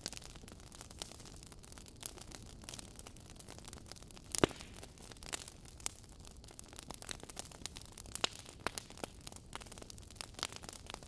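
Wood fire burning in a fireplace, logs crackling: irregular sharp pops and snaps over a low steady hiss, with one loud pop about four and a half seconds in.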